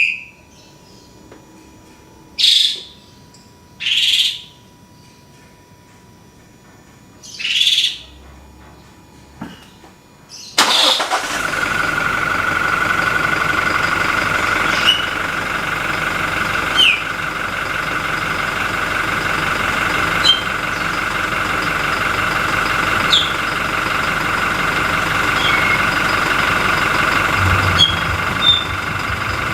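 A few short high chirps over a quiet background, then about ten seconds in a Toyota Innova 2GD-FTV turbo diesel starts and settles into a steady idle with a steady high whine from its turbocharger. The engine is factory-standard and three months old. Faint bird chirps come through over the idle now and then.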